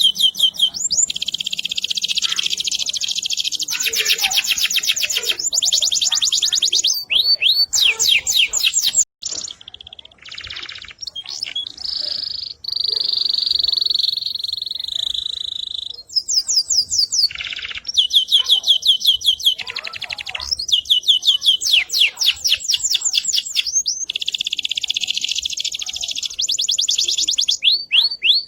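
Domestic canary singing a long, loud song of fast trills and rolling repeated phrases, with a long steady whistled note in the middle and a brief pause about nine seconds in.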